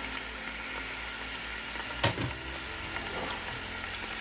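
Seasoned chicken pieces sizzling as they start to sear in a large pot on medium heat, with a low hum underneath. One sharp knock comes about two seconds in, from a utensil against the pot.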